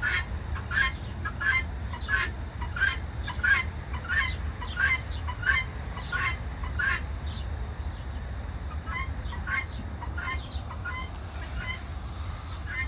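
Chukar partridges calling, a quick rhythmic run of short clucking calls at about two a second that pauses around the middle and then resumes more faintly, over a steady low rumble.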